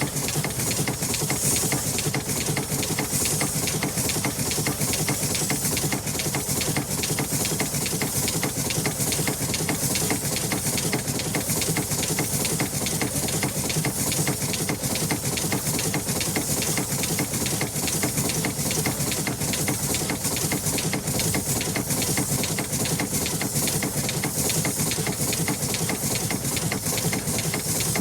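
An engine running steadily at constant speed, with a fast, even mechanical clatter and a strong hiss over it.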